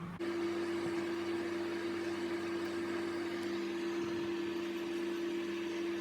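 Microwave oven running while it heats food: a steady hum over even fan noise.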